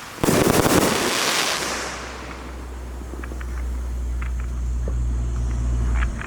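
A firework shot bursts about a quarter second in, followed by dense crackling that dies away within two seconds. A steady low rumble and a few faint pops follow.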